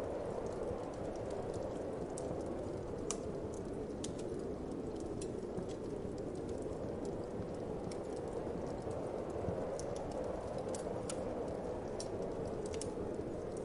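Wood fire crackling with irregular sharp pops and snaps, over a steady low whoosh of wind.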